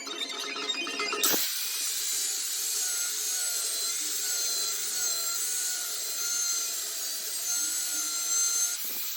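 A tool working material: a steady sawing or grinding noise with a faint wavering whine in it, starting about a second in and stopping just before the end.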